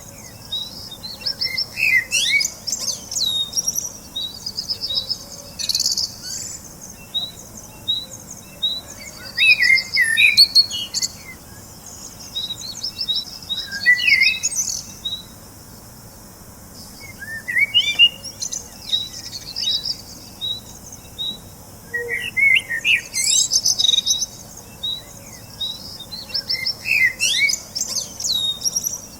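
Birds chirping and singing: short, quick phrases of sweeping chirps every few seconds over a steady run of short, repeated high chips.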